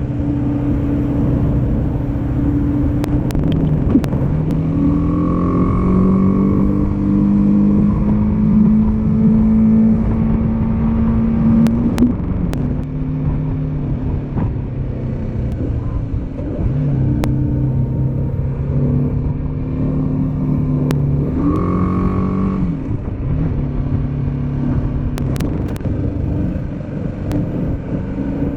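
Motorcycle engine under way, over steady wind and road noise. Its pitch climbs about four seconds in, holds, and drops around twelve seconds in, then rises and falls again a little after twenty seconds.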